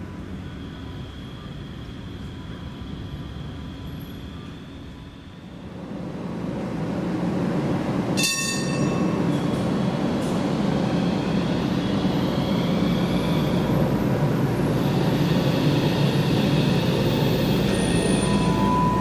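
A Manyosen Aitram low-floor tram approaches and runs past, its rolling rumble and motor whine swelling from about six seconds in to a steady level. A single bright ringing note sounds about eight seconds in.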